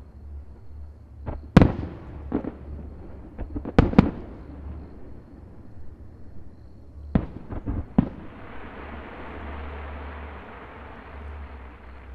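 Aerial fireworks shells bursting: a string of sharp booms that echo, coming in two clusters of several bangs, followed by a few seconds of steady hissing.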